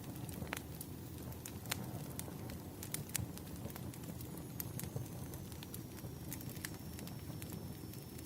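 Burning firewood crackling: irregular sharp pops and snaps over a steady low rumble of the flames, with a faint thin high whistle joining about halfway through.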